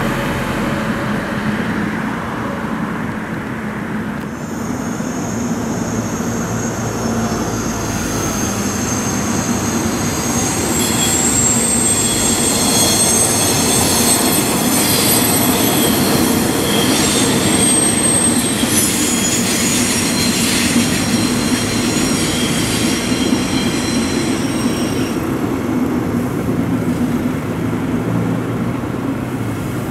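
Locomotive-hauled regional train running across an elevated concrete rail viaduct, a steady rumble of wheels on the track. From about five seconds in, its wheels squeal on the curve in several thin high whines that peak midway and die away about five seconds before the end.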